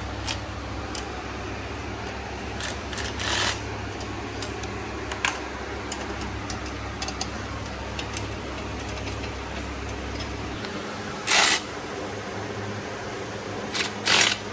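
Hand tools working on an exhaust pipe clamp: scattered metal clicks and clinks, with two brief louder bursts, the louder one about eleven seconds in, over a steady low hum.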